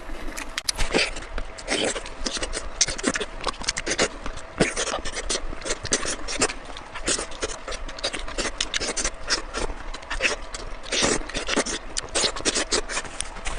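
Close-miked eating sounds: irregular wet chewing and mouth clicks, several a second throughout.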